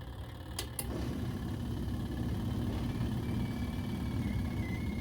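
Portable twin-tub washing machine's electric motor running with a steady low hum. Two sharp clicks come just under a second in, after which the hum grows louder, and a faint high whine joins it near the middle.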